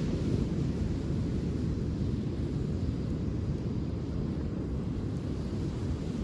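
Steady low rumble of wind and ocean surf on a beach, with wind buffeting the microphone, and a few faint crackles from a wood campfire.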